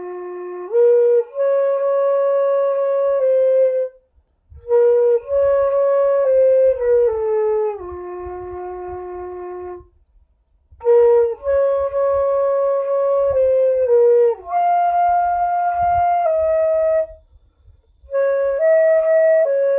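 Sanjo daegeum, a Korean bamboo transverse flute, playing a slow melody of long held notes. The phrases are broken by short pauses about four, ten and seventeen seconds in.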